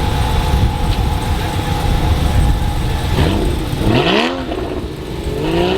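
A car engine running with a deep low rumble, then revved twice: the pitch climbs and drops about three seconds in, and climbs again near the end.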